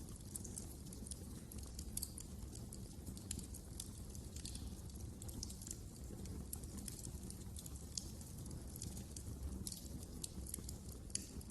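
Wood fire burning in a fireplace: a low steady rumble of the flames with many irregular small crackles and pops.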